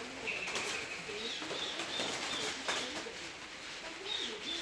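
Sun conure parrot calling softly: a held high whistle, then a series of short high chirps.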